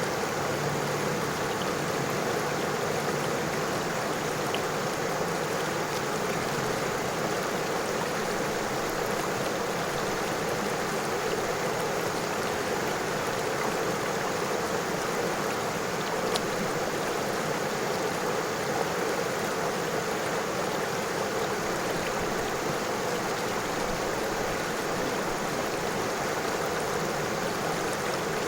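A river flowing over stones: a steady, even rush of water with fine splashing.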